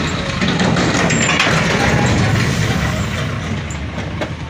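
Vehicle noise: a steady, loud engine and road rumble with a few short clicks.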